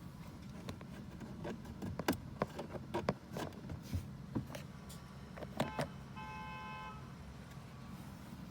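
Rastar toy Lamborghini's sound effects: a run of sharp clicks and knocks, then a steady electronic tone lasting about a second, over a low steady hum.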